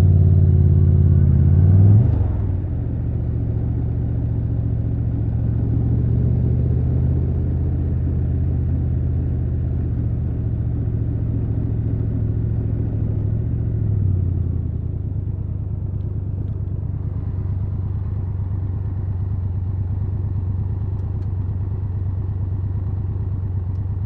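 Triumph Tiger 1200 Rally Pro's inline three-cylinder engine running at low revs. It is louder for the first two seconds, then drops back at about two seconds and holds a steady low note, like an idle.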